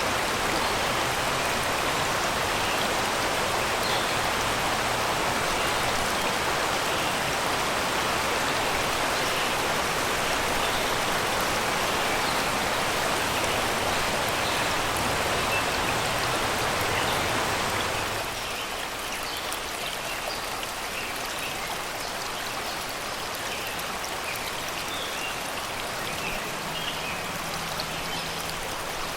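Shallow river water rushing and babbling steadily over rocks and stones. About 18 seconds in it drops suddenly to a quieter, lighter flow, with faint bird chirps over the water.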